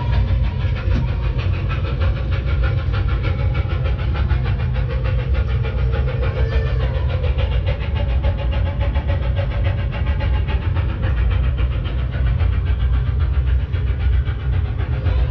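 Model train running on a display layout: a steady rumble with a fine, rapid ticking from the wheels and motor on the track.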